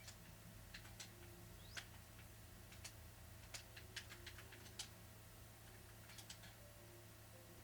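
Near silence: faint, sharp clicks scattered irregularly over a low steady hum.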